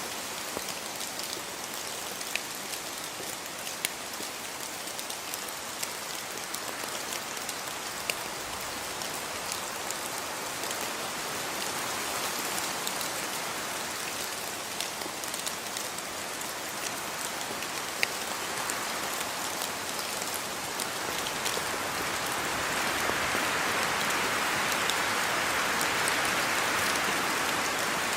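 Steady rain falling, with scattered sharp drips and drop impacts standing out against the hiss. The rain swells a little louder over the last few seconds.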